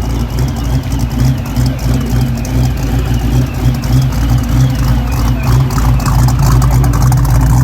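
Muscle car V8 engine running steadily, with a high wavering whistle over it that the driver puts down to a bad power steering pump.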